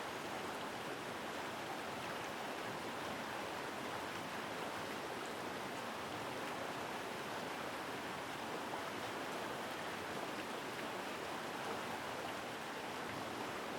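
Mountain stream flowing strongly, a steady, powerful rush of water.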